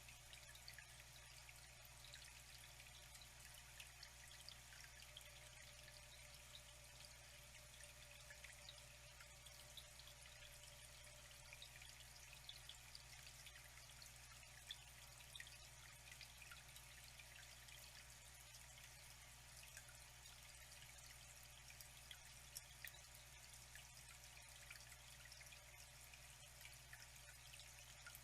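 Faint, steady trickle of flowing water, with many small drips and splashes scattered through it.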